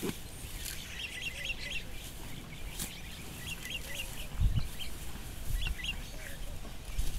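Small birds chirping in quick, repeated short calls, with a few sharp clicks and a low thump about four and a half seconds in.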